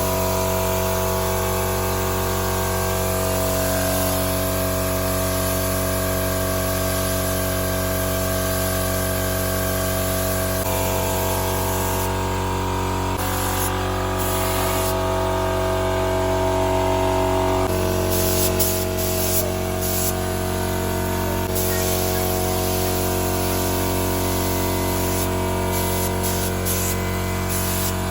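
Spray gun hissing steadily as paint is sprayed onto a plastic car bumper, with a steady machine hum underneath.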